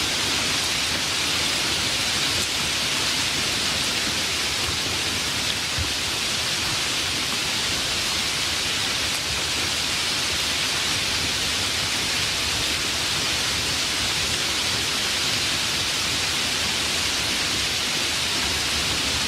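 Steady heavy rain, an even hiss with no breaks or drop-by-drop detail.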